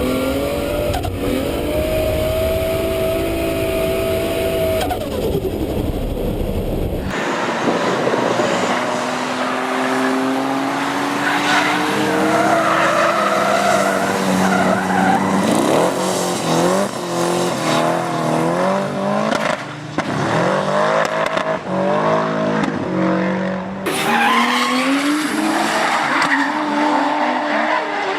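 Toyota Supra Mk4's 2JZ inline-six engine revving hard while drifting, its pitch climbing and dropping with the throttle, over tyres squealing. The sound changes abruptly about seven seconds in and again near the end, as from one car run to another.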